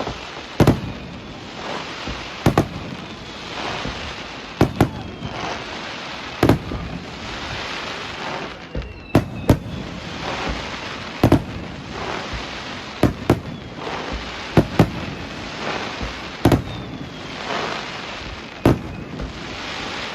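Aerial fireworks bursting: more than a dozen sharp bangs, one every one to two seconds, over continuous crackling.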